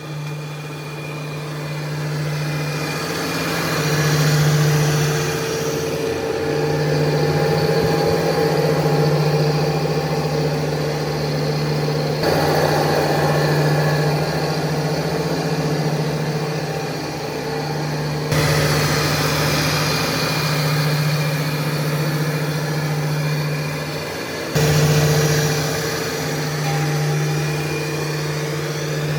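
Restored sawmill machine running steadily under power, a constant engine-like hum with a higher overtone. The sound shifts abruptly three times, at about 12, 18 and 25 seconds.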